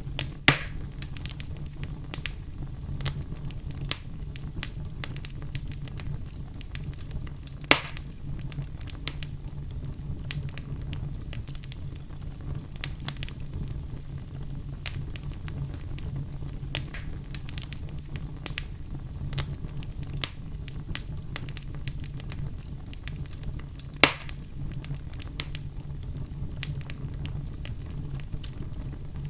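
Wood fire burning in a fireplace: a steady low rumble of flames under a running patter of small crackles, with three loud sharp pops near the start, about eight seconds in and about twenty-four seconds in.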